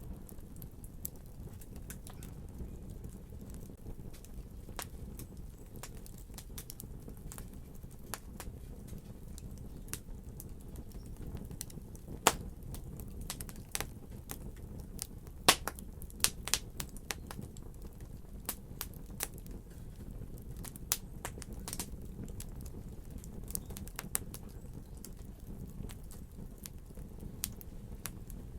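Wood fire crackling: a low steady rumble of flames with many sharp pops and snaps. The pops come thickest in the middle stretch, where the two loudest snaps stand out.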